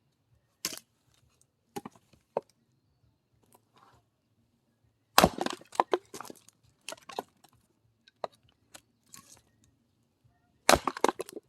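Axe splitting firewood: a loud sharp strike about five seconds in, followed by split pieces of wood clattering down, and a second strike with more clatter near the end. A few lighter knocks of wood come before the first strike.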